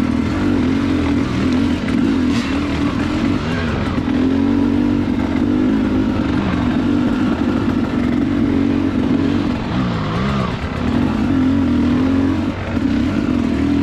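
Two-stroke dirt bike engine running under varying throttle on a slippery trail, its pitch wavering up and down. It drops away briefly twice, about three seconds in and again near ten seconds, before picking back up.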